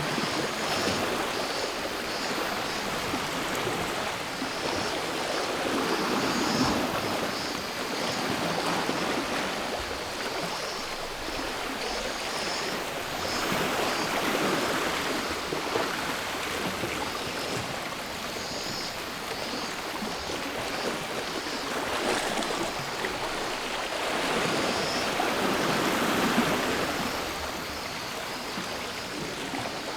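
Sea waves washing onto the shore in slow surges, swelling about every eight seconds, with cicadas buzzing high and steady behind them.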